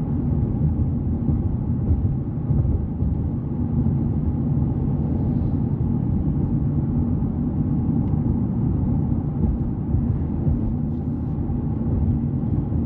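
Steady road and engine noise heard from inside a moving car: a constant low rumble with a faint hum.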